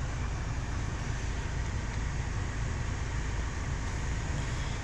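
Steady car-cabin noise: an even low rumble with hiss above it, no single event standing out.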